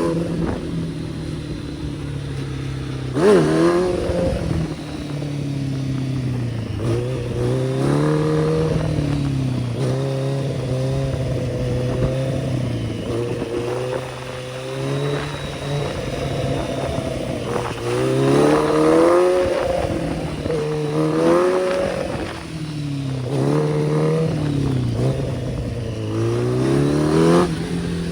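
Kawasaki ZX-10R's inline-four engine revving up and easing off again and again as the bike accelerates, its pitch rising and falling in repeated sweeps, with a sharp burst of revs about three seconds in.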